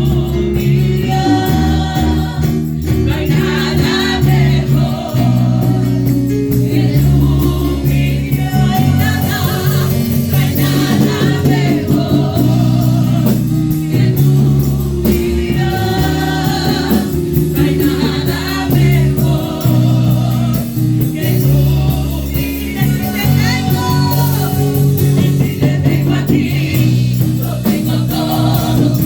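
Praise-and-worship music played live: a band with sustained chords and a steady beat backs singers.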